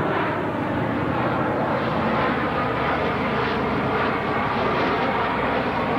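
Piston engines of a propeller-driven warbird running steadily in flight, a continuous even drone.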